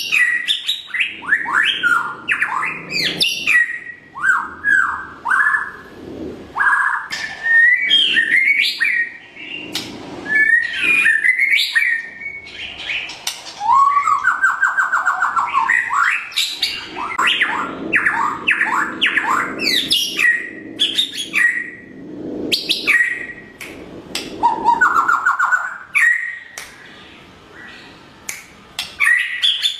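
White-rumped shama singing a long, varied song of whistled phrases and quick glides, broken about halfway and again later by rapid trills.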